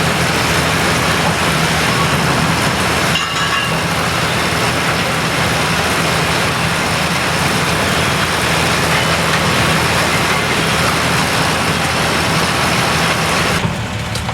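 Pruning round baler working in the field, picking up and rolling branch prunings, driven by a tractor engine: a loud, dense, steady noise of the machine working over the engine's low hum. Near the end the working noise cuts off suddenly, leaving the engine running.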